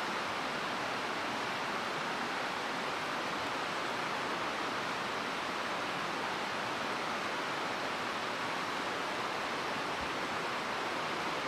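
Mountain stream running with a steady rush of water.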